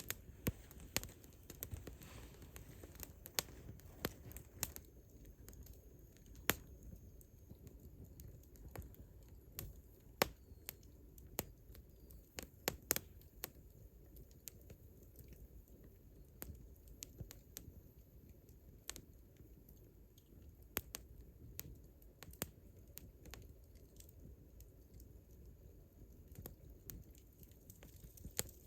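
Burning campfire wood crackling, with irregular sharp pops and snaps over a low steady rumble.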